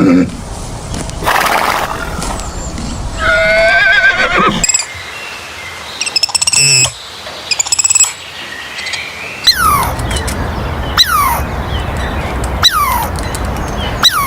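A run of short, separate animal-call recordings played one after another. Among them is a wavering horse whinny about three to four seconds in, and in the last few seconds a bird repeats a call that sweeps down in pitch, about once every second and a half.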